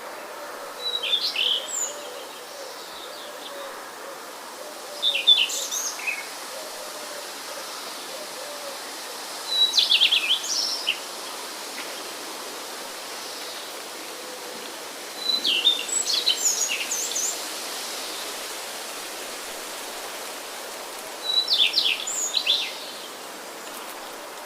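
A songbird singing short phrases of quick high notes, five times, about every five seconds, over a steady background hiss.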